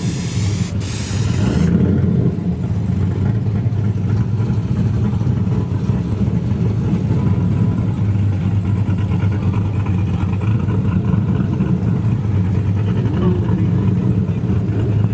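Drag race car engine running steadily with a loud, low rumble. A loud hiss over it stops about two seconds in.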